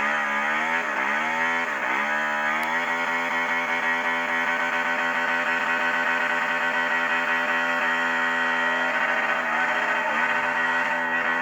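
Sport bike engine revved in quick blips, then held at a steady high pitch for several seconds, with the revs wavering again near the end.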